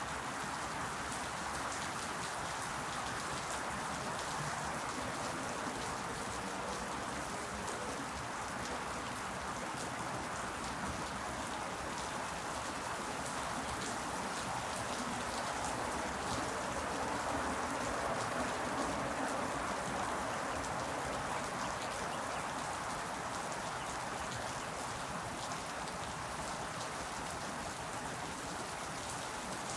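Steady rain falling and pattering on leaves, an even hiss with many fine drop ticks, swelling slightly about halfway through.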